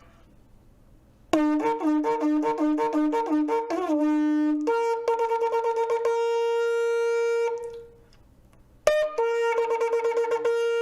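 Shofar sounding a teruah: about nine quick staccato blasts on a low note, then a jump to a long held higher note. After a short pause a second blast starts, a held high note with a fast tremble, a broken, alarm-like call.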